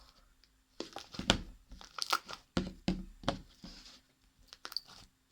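Fluffy slime of clear glue mixed with shaving foam being stirred and worked by hand, giving a run of irregular squishy crackles.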